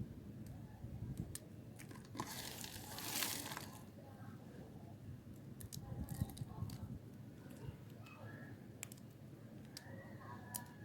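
A knife cutting hard, dry soap: scattered small clicks and crumbly scraping, with one longer crunchy scrape about two to four seconds in.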